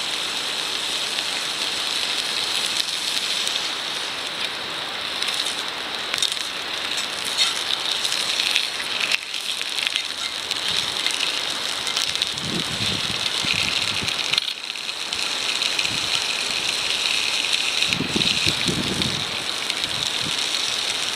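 Wood fire burning in a wireframe fire pit: a steady hiss with fine crackling, and a couple of brief low rumbles about two-thirds of the way in and near the end.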